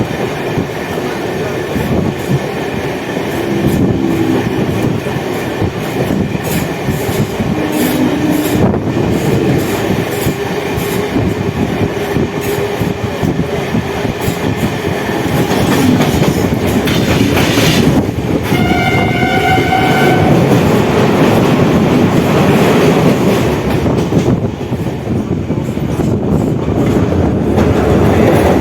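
Suburban electric multiple-unit local train running, heard from on board, with a train horn sounding for about two seconds roughly two-thirds of the way in.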